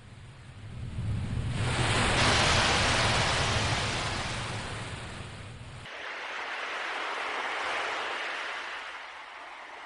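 Ocean waves washing ashore in two slow swells, the first building about two seconds in and the second near the middle. A low rumble runs under the first swell and stops abruptly.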